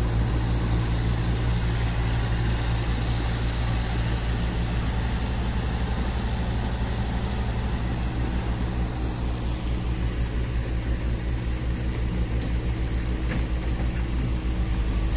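Heavy diesel engine idling steadily, a constant low hum.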